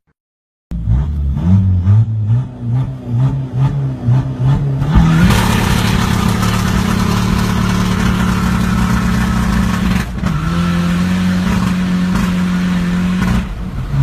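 Diesel engine starting loud after a brief silence, revved up and down several times in quick succession, then held at a steady high speed for several seconds, with a short dip midway and a drop near the end.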